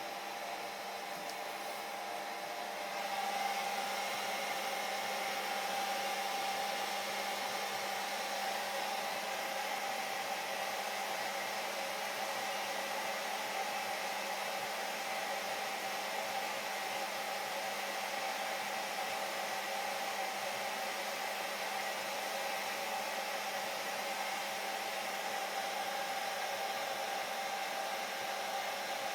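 Hair dryer running steadily: an even rush of blown air over a constant motor hum. It grows a little louder about three seconds in, then holds.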